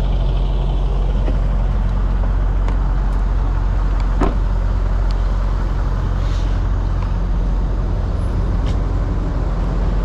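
An engine idling steadily with a low, even drone, broken by a few short clicks, the sharpest about four seconds in.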